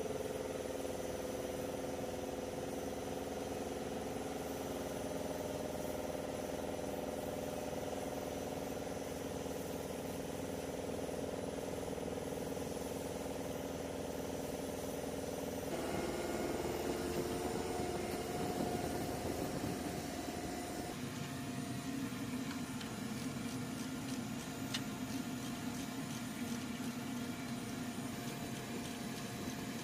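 Steady running engine hum with several fixed pitches. The sound changes abruptly about halfway through and again about two-thirds of the way in.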